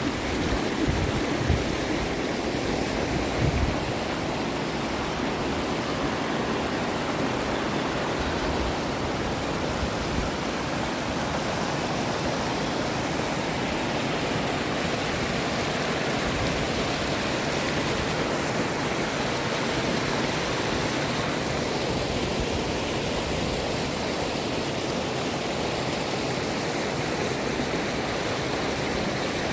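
Mountain valley stream water rushing steadily, an even hiss without pauses. A few low bumps come in the first few seconds.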